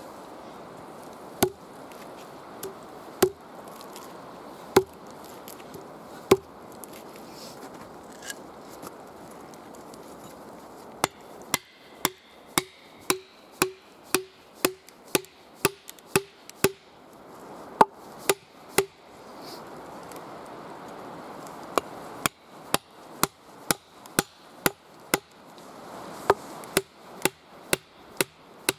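A tool striking wood: a few widely spaced blows, then quick runs of about two strikes a second, each with a short ringing note.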